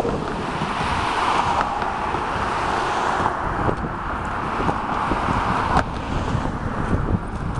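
Wind buffeting the microphone over road traffic noise during a bicycle ride, with a hiss like a passing car that stops abruptly about six seconds in.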